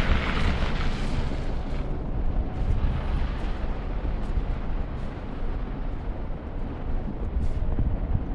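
Snowstorm wind buffeting the microphone: a steady low rumble, with a hissing gust at the start that dies away within about the first second.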